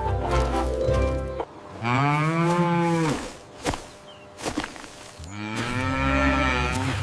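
A cow mooing twice, two long calls that each rise and fall in pitch, the first about two seconds in and the second near the end. Music plays briefly before the first moo.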